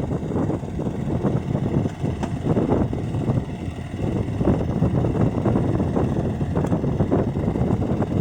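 Neva MB-23 walk-behind tractor's engine running steadily with a fast, even rumble, with a few sharper knocks over it, as it works a snow blade.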